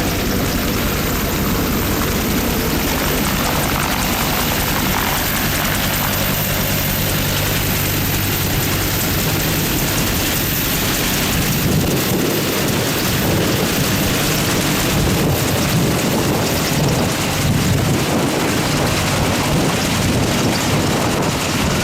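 AH-1W SuperCobra attack helicopter with twin turboshaft engines and a two-bladed main rotor, running loud and continuous as it takes off and passes overhead. For roughly the first fifteen seconds it is a steady hum with a few held low tones, which then gives way to rougher rushing noise as the rotor wash buffets the microphone.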